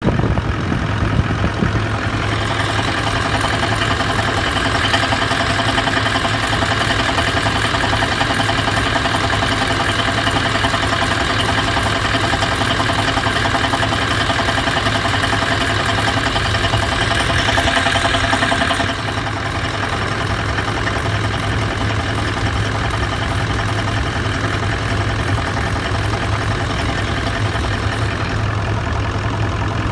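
Toyota Land Cruiser 200's V8 diesel idling, with a knocking coming up through the open oil filler neck, a knock whose cause the owner does not know. The sound grows louder and brighter about two seconds in and drops back suddenly about two-thirds of the way through.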